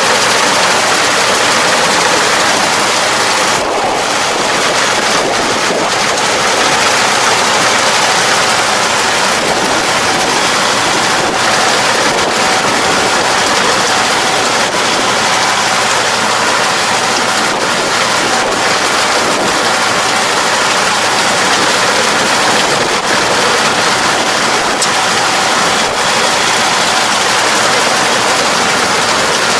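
Farm machine running steadily while working a field: a loud, even engine and machinery noise with no breaks.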